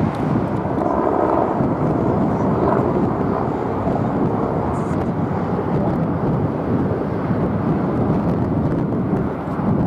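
Jet airliner engine noise, a steady, loud rush without a clear pitch.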